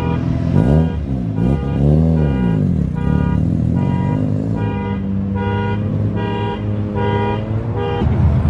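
A car alarm sounds in regular pulsing beeps, about two a second. Underneath, a car engine revs up and down, then holds a steady speed in the second half.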